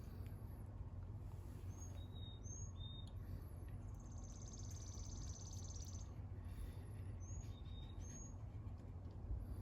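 Songbirds calling: short, high two-note chirps repeated four times and a fast buzzy trill lasting about two seconds in the middle, over a low steady rumble.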